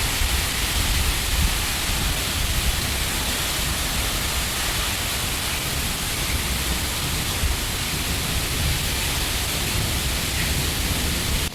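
Steady heavy rain, a dense even hiss with a low rumble underneath, during a thunderstorm.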